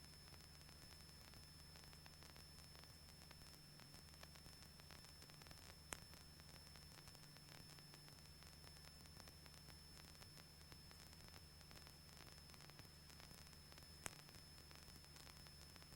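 Near silence: faint electronic hiss with a steady low hum and a thin high whine, broken by two faint clicks about six and fourteen seconds in.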